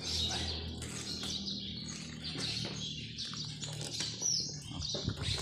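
Small birds chirping repeatedly, many short high-pitched calls overlapping, over a low steady hum. A few sharp clicks near the end.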